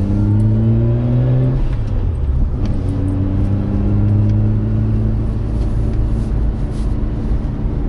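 Turbocharged Mazda RX-8's 13B twin-rotor rotary engine under acceleration, heard inside the cabin, its pitch rising. About a second and a half in it drops out briefly and comes back at a lower pitch, as on an upshift, then climbs slowly again.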